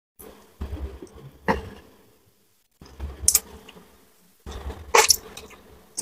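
Close-up eating sounds of crispy fried gourami being chewed, coming in three short bouts, each with a sharp crunch or mouth smack.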